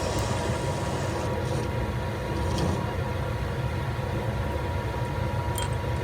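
Metal lathe running steadily, a low rumble with a thin steady hum, as a large twist drill is run into the bore; a few faint ticks.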